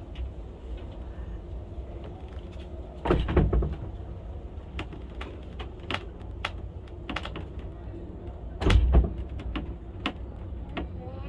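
Funicular cliff railway car running down its track: a steady low rumble with scattered sharp clicks and two louder clunks, about three seconds in and again near nine seconds.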